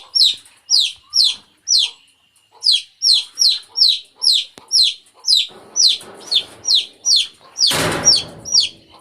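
Domestic chicken chick peeping over and over, high, short calls that fall in pitch, about two a second, with one brief pause. A short burst of rustling noise near the end.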